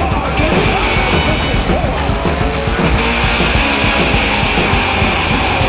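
Demolition derby cars' engines revving hard, their pitch rising and falling without a break, with a steady high squeal running under them.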